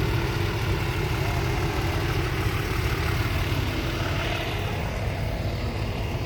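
Engine idling steadily: a low, evenly pulsing rumble.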